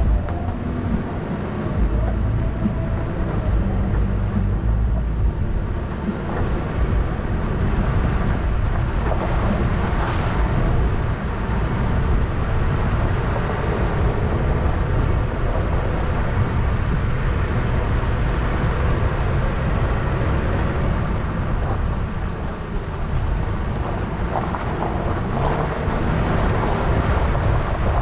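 Toyota 4Runner driving a rough dirt trail: steady engine and tyre noise, with frequent short knocks and rattles from the uneven ground.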